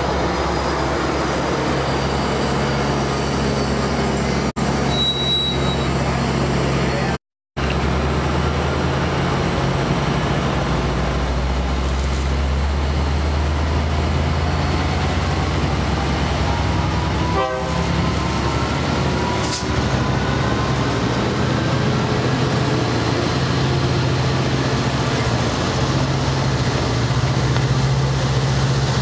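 Amtrak trains at a station platform: first a double-deck train rolling past. Then an EMD F59PHI diesel locomotive drones steadily as its Pacific Surfliner train departs, with a whine that rises slowly in pitch as it gathers speed.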